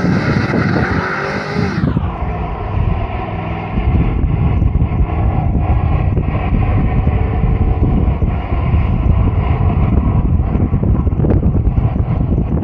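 1999 Ford Mustang GT's 4.6-litre V8 held at high revs through smoky burnout donuts, its rear tyres spinning on the asphalt. About two seconds in the sound turns duller and noisier and stays that way.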